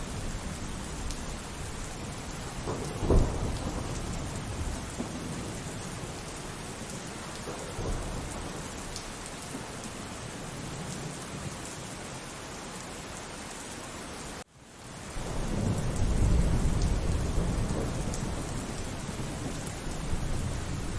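Steady rain falling through a thunderstorm. A sharp thunderclap comes about three seconds in and a softer one a few seconds later. After a momentary cut in the sound about two-thirds of the way through, a long low thunder rumble swells up and fades.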